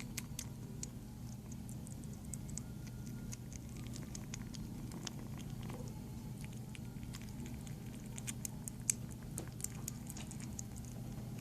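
Kitten eating: a run of quick, sharp clicks from its chewing and licking, over a steady low hum.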